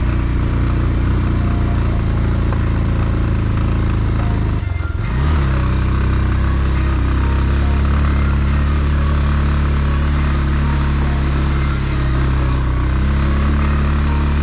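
Motorcycle engine running steadily while riding. About five seconds in, the engine note dips briefly, then climbs back up in pitch and carries on steadily.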